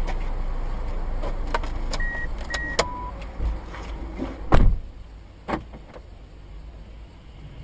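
Car interior audio from a dashcam: a low road and engine rumble that fades out about six seconds in, with scattered clicks and knocks. A little after two seconds there are two short high electronic beeps and then a lower one. About four and a half seconds in comes one loud heavy thump.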